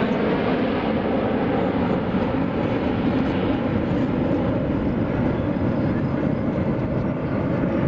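Steady jet engine noise from the Snowbirds' Canadair CT-114 Tutor jets flying at the airshow.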